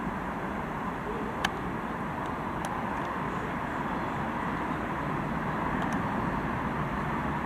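Class 66 diesel locomotive's two-stroke V12 engine running as a low rumble that slowly grows louder, mixed with wind buffeting the microphone. There is a sharp click about a second and a half in.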